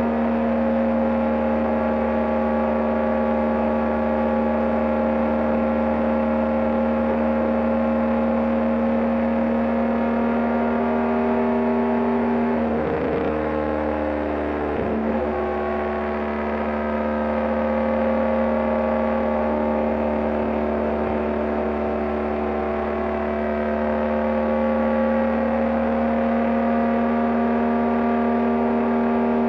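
BMW GS Adventure motorcycle engine running steadily at highway cruising speed. About halfway through, its note dips briefly and comes back up.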